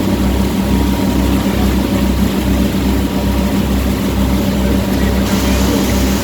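Boat engine running steadily, a constant low hum with a regular throb about twice a second, under a steady hiss.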